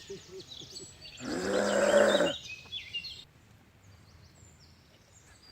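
Small birds chirping and singing, with a loud drawn-out pitched call lasting about a second, starting a little over a second in.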